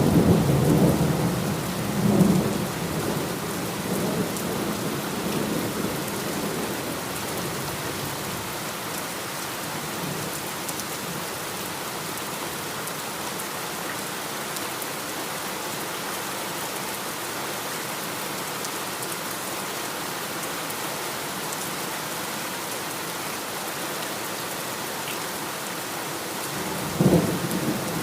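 Heavy rain falling steadily in a thunderstorm. A low rumble of thunder at the start dies away within about three seconds, and a fresh thunder rumble begins near the end.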